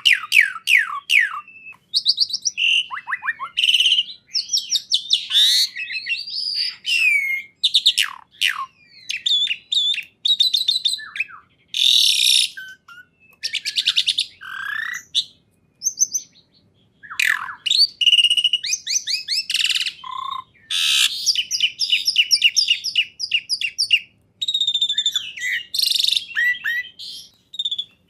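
Songbird singing a long, varied song of whistled notes, fast trills and quick sliding calls, phrase after phrase with short pauses between.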